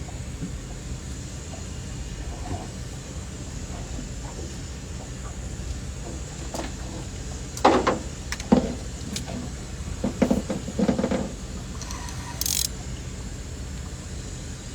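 Steady low rumble on a fishing boat, with a few sharp knocks and clattering about halfway through and a short hiss near the end.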